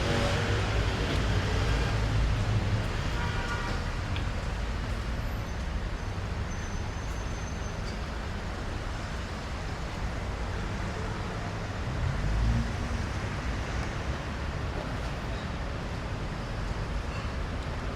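City street traffic: cars passing with a steady low engine and tyre rumble, one passing closer and louder about twelve seconds in.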